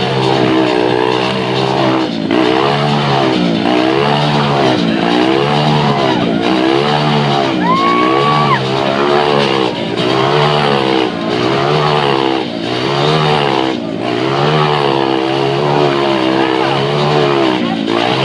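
Motorcycle engine running hard as it circles inside a steel-mesh Globe of Death sphere, its pitch swelling and dipping about once a second with each lap. A brief high tone sounds about eight seconds in.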